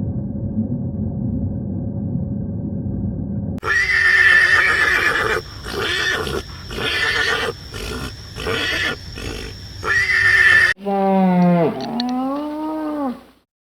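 A few seconds of low steady rumbling, then a horse whinnying in a string of loud, broken calls. Near the end a cow moos once, its pitch dipping and rising before it cuts off.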